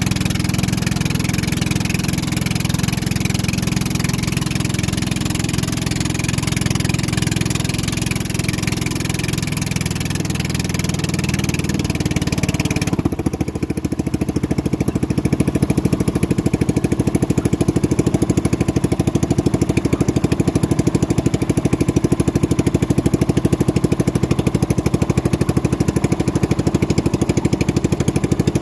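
Motorboat engine running steadily; about thirteen seconds in its sound changes, the high hiss dropping away and a lower, evenly pulsing engine note taking over.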